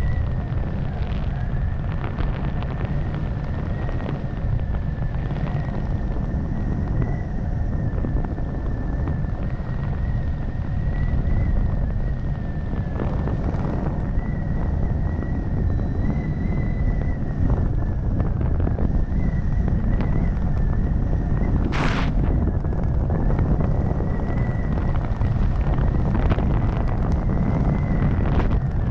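Wind rushing over a helmet-mounted camera's microphone during a skydive, with a thin, steady high whine that wavers slightly in pitch. A brief sharp rush of noise stands out about three-quarters of the way through.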